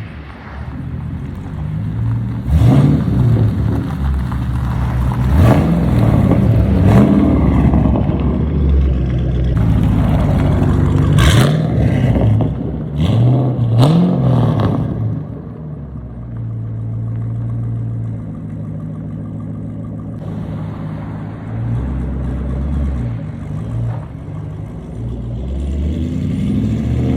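2010 Mustang GT's 4.6-litre three-valve V8 revved several times, pitch rising and falling with each blip, then settling back to a steady idle for the second half.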